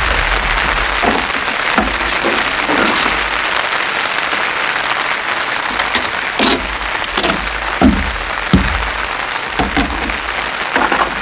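Steady rain pattering on a wooden deck and on tent fabric, with a gusty low rumble of wind on the microphone. Scattered knocks and rustles come from a tent's fabric and poles being handled, the loudest a few seconds past the middle.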